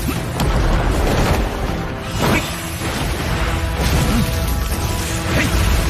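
Background music mixed with animated-battle sound effects: crashes and booming impacts, several strikes spread over a few seconds.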